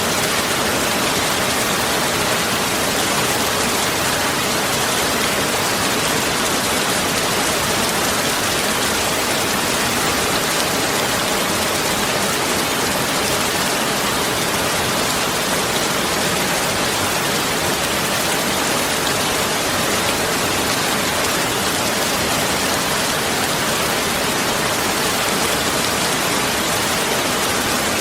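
Heavy rain falling steadily, a dense even hiss without any single drops or thunder standing out.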